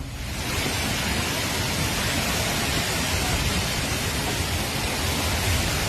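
Steady rushing roar of fast-moving floodwater in a flash-flooded channel, an even noise with no distinct events.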